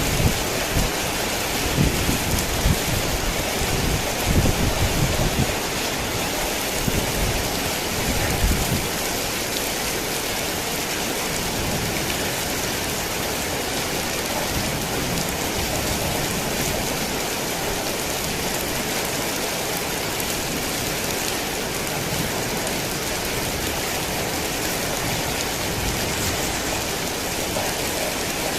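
Heavy rain falling steadily, a dense even hiss. Low thunder rumbles through roughly the first nine seconds, then fades, leaving only the rain.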